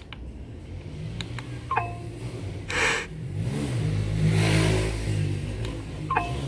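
Two short falling electronic beeps, one about a second and a half in and one near the end. Between them, an engine-like sound that rises in pitch and then holds steady for a couple of seconds.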